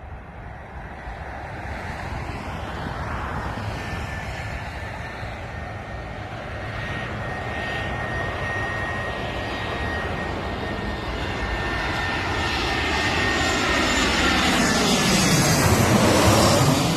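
An airliner on landing approach passes low overhead. Its engines grow steadily louder with a high whine, loudest near the end as it goes over, then start to fade.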